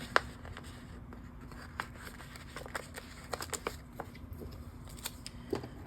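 Faint scattered clicks and rustles of paper sticker sheets being handled, over a low steady hum.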